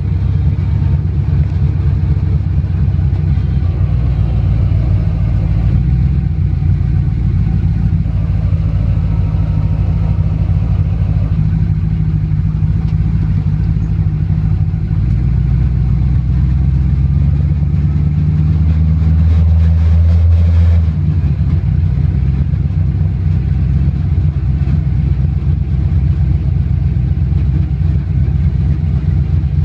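Hemi V8 of a 1933 coupe hot rod heard from inside the cab on the move: a loud, deep exhaust rumble under road noise. It swells past the middle and drops back suddenly about two-thirds through.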